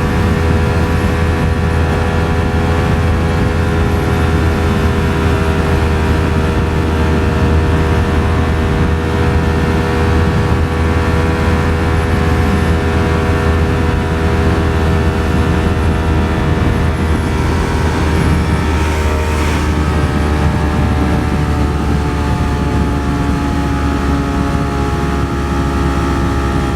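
Ducati Streetfighter V4 S's V4 engine running at a steady cruising speed, a constant engine note that shifts slightly in pitch about two-thirds of the way through, over a steady wind rumble.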